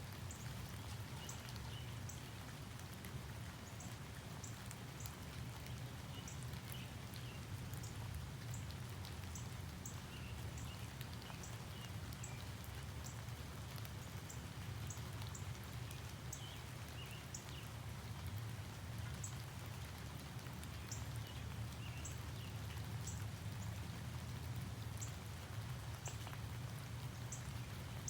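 Outdoor morning ambience: a steady low rumble under a soft even hiss, with short high-pitched chirps or ticks at irregular intervals, about one a second.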